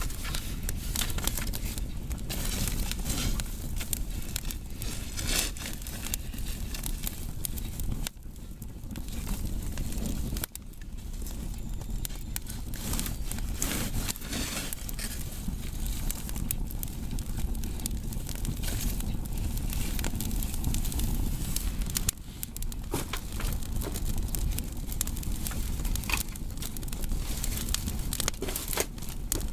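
Firewood burning, crackling with many irregular sharp pops over a low steady rumble.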